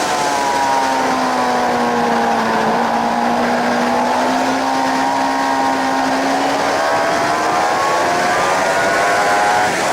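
Suzuki GSX-R 750 K7's inline-four engine heard onboard over heavy wind rush. The engine note falls for the first few seconds as the bike slows, holds roughly level, then climbs again from about seven seconds in as the throttle opens, with a quick shift in the note just before the end.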